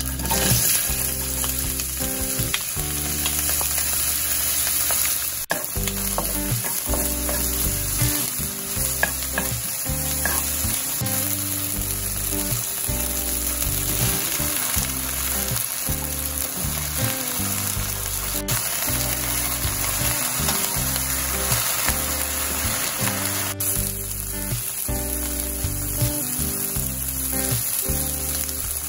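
Sliced green onions, then round eggplant slices, sizzling and being stir-fried in oil in a nonstick wok over medium heat: a steady frying hiss with stirring.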